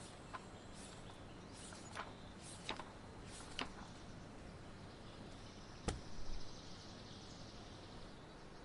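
Quiet outdoor nature ambience: a soft steady hiss broken by a handful of sharp ticks and knocks, the loudest about six seconds in, with a soft high chirring trill from about five and a half to eight seconds.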